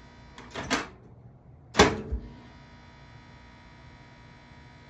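Microwave oven handled: a short rattle about half a second in, then a sharp clunk, the loudest sound, just under two seconds in, like its door being shut, over a steady electrical hum.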